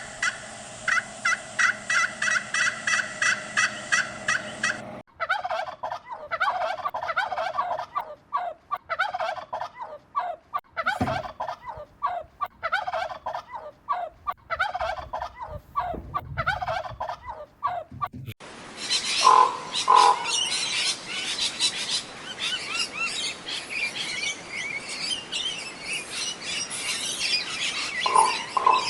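Bird calls across three spliced clips. First comes fast repeated calling, about four notes a second, like a gobble. A sudden cut about five seconds in leads to a dense run of short chattering notes. From about eighteen seconds in there is high chirping with a few lower calls.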